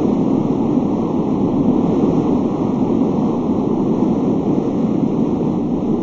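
Storm wind sound effect: a strong wind blowing steadily, a deep even rush.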